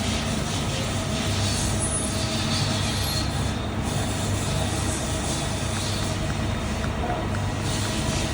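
Mazak QT30 NC lathe's spindle drive running steadily: a constant low mechanical hum with a fainter higher tone above it.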